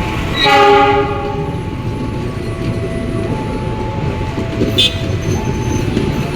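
A train horn sounds one short blast about half a second in, over the steady rumble of a passing train. An alternating two-note tone repeats throughout, and a brief high tone sounds near the end.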